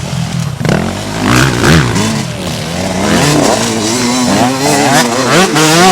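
Motocross bike engines revving, their pitch climbing and dropping again and again as the riders work the throttle, with more than one bike heard at once.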